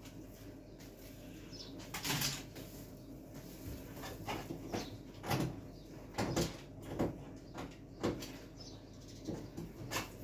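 Irregular knocks and short rattles of a refrigerator's freezer compartment door being worked loose and handled, with a louder clatter about two seconds in.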